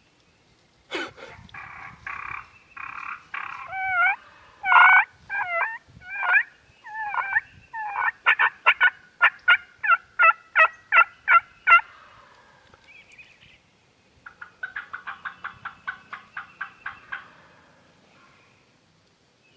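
Wild turkey yelping: a run of loud, close yelps, each note bending down in pitch, that speeds into sharp, quick cutting notes. A softer, fast series of notes follows near the end.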